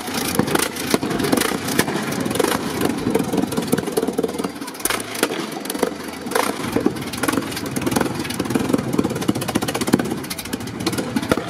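1911 Fiat S76's 30-litre four-cylinder engine running, a rapid, uneven train of sharp exhaust cracks.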